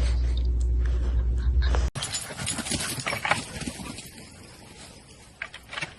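Dog sounds over a steady low hum. About two seconds in, the audio cuts abruptly to scattered clicks and rustles that grow fainter.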